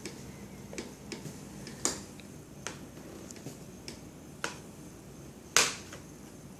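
A toddler eating by herself: about eight irregular sharp clicks and taps, the loudest a little before the end.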